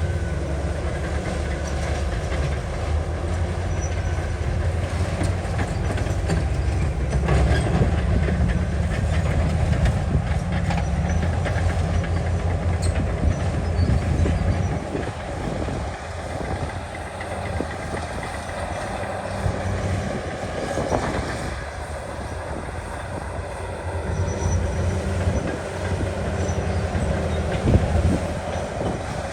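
Bulldozer's heavy diesel engine working under load, with a steady clanking clatter of its tracks. The engine drone eases about halfway through and picks up again a few seconds before the end.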